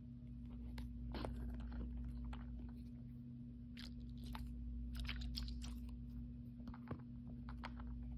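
Irregular crinkling and crackling of plastic packaging being handled and opened by hand, over a steady low hum.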